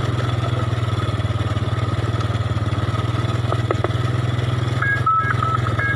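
Motorcycle engine running steadily with an even low pulse. About five seconds in, a looping electronic jingle melody starts up: a mobile bread seller's jingle.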